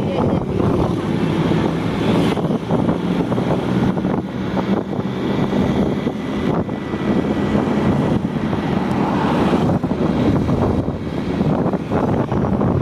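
A vehicle driving, its engine running with a steady low hum, with wind noise on the microphone.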